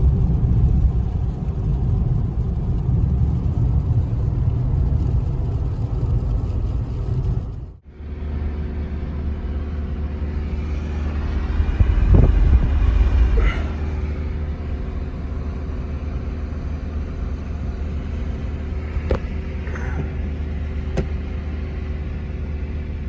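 Steady low rumble that cuts off abruptly about eight seconds in and resumes, swelling briefly a few seconds later, with a few sharp clicks near the end.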